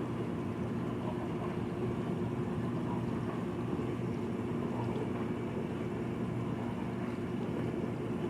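Dishwasher running, a steady motor hum with several held low tones, unchanged throughout.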